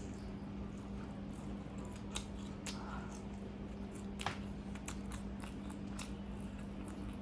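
Close-miked chewing and biting, with scattered small crunches and wet mouth clicks, the sharpest about four seconds in, over a steady low hum.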